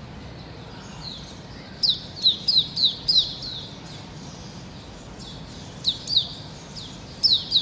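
A bird calling in quick runs of short, high chirps, each sliding down in pitch. A fast run of about seven comes about two seconds in, a couple more come near six seconds, and another run comes near the end.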